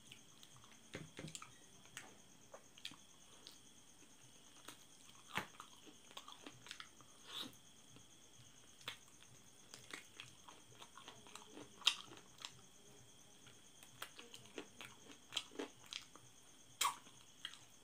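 Close mouth sounds of a man eating spicy chicken feet curry by hand: irregular smacks, clicks and crunches of biting and chewing, the loudest about twelve and seventeen seconds in. A faint steady high whine runs underneath.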